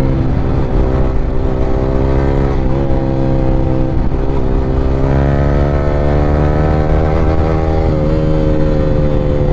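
Yamaha R15 V3's single-cylinder engine through an Akrapovic aftermarket exhaust, running under load on the move. Its pitch holds fairly steady, climbs a little around the middle as it pulls harder, and eases off near the end.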